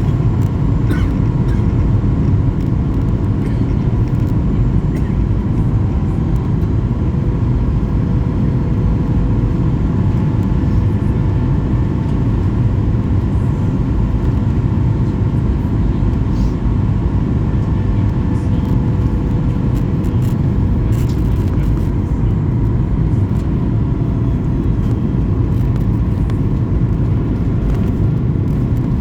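Steady engine and airflow noise inside an airliner cabin in flight: an even low rumble with a faint steady whine over it.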